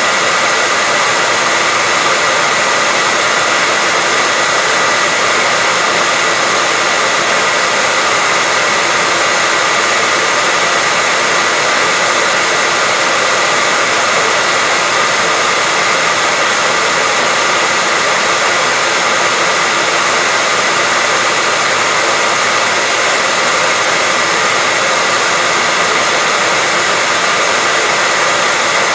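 Electric hair dryer running continuously at a steady level: an even rush of blown air with a constant high whine from its motor.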